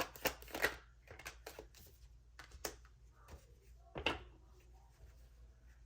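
Tarot cards being handled: a quick run of light clicks and taps in the first second, then scattered taps with one louder knock about four seconds in.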